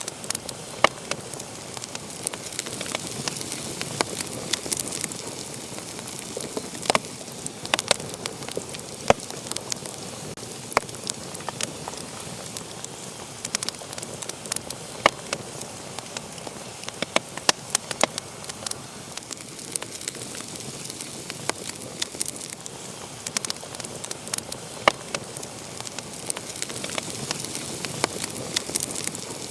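Wood fire burning in a fireplace: a steady hiss with sharp, irregular crackles and pops.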